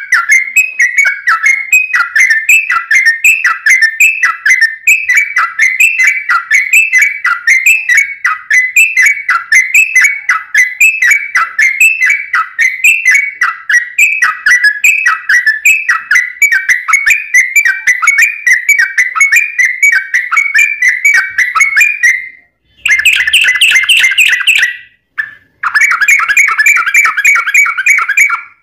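Trucuk (yellow-vented bulbul) singing a fast, unbroken run of short whistled chirps, several a second. Near the end the song stops briefly twice, and each time it resumes in a denser, busier burst.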